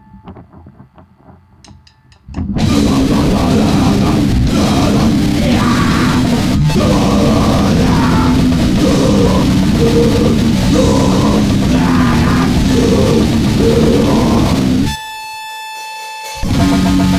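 Grindcore/noise band session: a loud, dense wall of distorted guitar and drums kicks in a couple of seconds in after a quiet start. Near the end it breaks off for a moment to a steady whine, then crashes back in.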